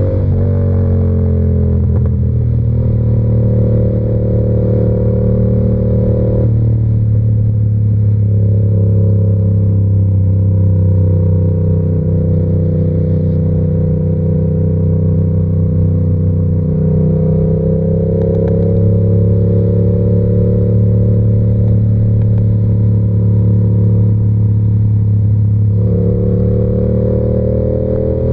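Yamaha R7's 689 cc parallel-twin engine through an SC-Project exhaust, running at steady cruising throttle. Its pitch drops about six seconds in and later climbs gradually twice as the bike gathers speed.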